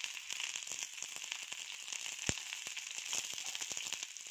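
Sliced onions and green chillies sizzling in a little oil on a flat griddle (tawa), being lightly shallow-fried. A steady hiss runs under many small crackles, with one sharper pop about two seconds in.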